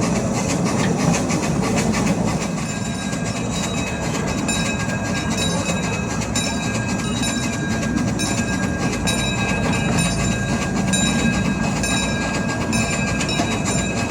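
Miniature amusement-park train rolling along its track, heard from a riding passenger car: a steady rumble of wheels on rail with a run of small clicks over the rail joints.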